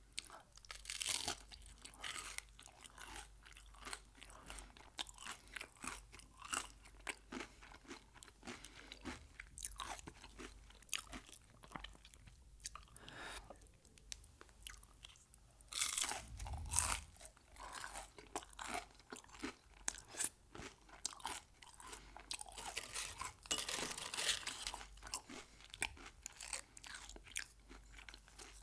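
Close-miked eating: crunchy bites and steady chewing of Mexican food, with louder crunches about a second in, around the middle, and again a few seconds before the end.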